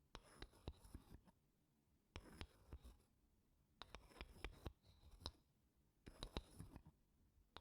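Wooden spoon scraping gently across wooden blocks, in four short passes of light scratches and ticks with brief pauses between them.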